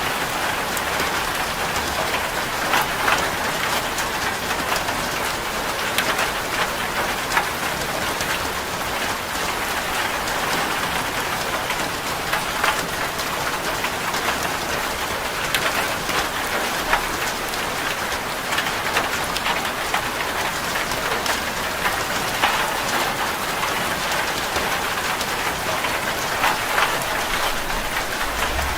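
Steady heavy rain drumming on a corrugated zinc sheet-metal roof, a dense patter with many sharp individual drop ticks.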